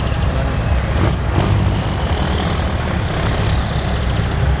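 Scania 580 truck's V8 diesel engine running steadily with a deep, even rumble.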